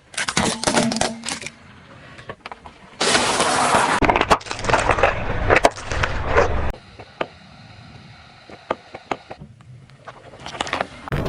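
A car tyre rolling over and crushing brittle objects: a run of cracks, crunches and crackling, broken into several short segments that start and stop abruptly.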